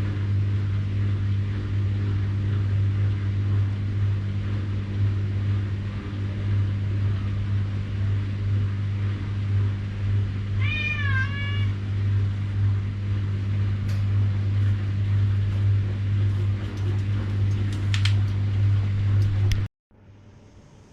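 Washing machine running with a steady low hum. A cat meows once, briefly, about halfway through, and a few light clicks follow before the machine sound cuts off abruptly near the end.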